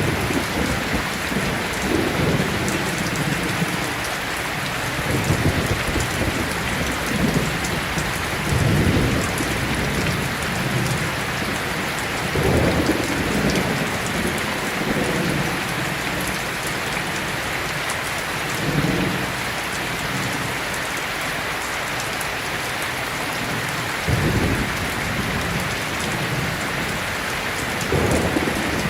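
Heavy rain falling steadily in a thunderstorm, with low rolls of thunder rumbling up every few seconds, about ten times.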